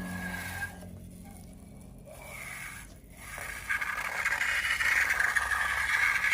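Scraping and rustling of slime being worked by hand, growing louder and more continuous in the second half.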